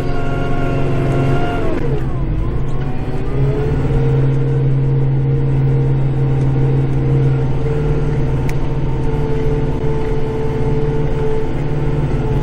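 Kubota tractor's diesel engine running at high revs under load, heard from inside the cab; the revs sag about two seconds in and climb back a second or so later, then hold steady.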